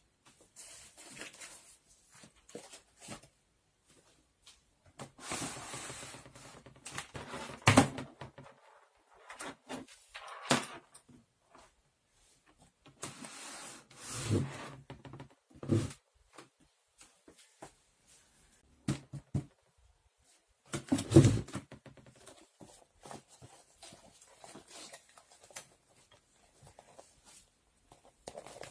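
Intermittent handling sounds: rustling and scraping broken by a few sharp knocks, the loudest about eight and twenty-one seconds in.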